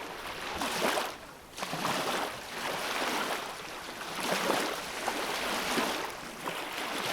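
Ocean surf washing in, a rush of water that swells and fades every second or so.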